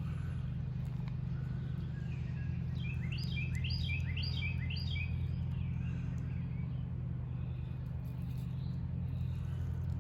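A songbird sings a quick series of short, falling, high chirps lasting about two and a half seconds, starting about three seconds in, over a steady low hum.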